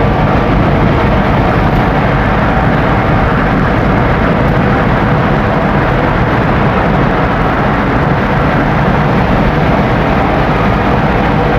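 Scania N270UD OmniDekka double-decker bus running at a steady speed, heard from on board: an even mix of diesel engine, road and wind noise, with a faint steady whine coming in near the end.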